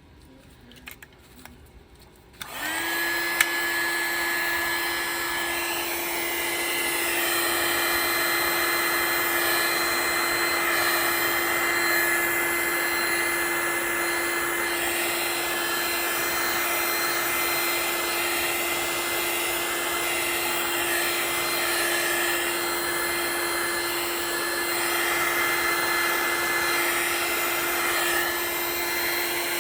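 Handheld hot-air blower switched on about two and a half seconds in and running steadily, a constant hum with a high whine over a rush of air, as it pushes white resin across the wet coaster into waves.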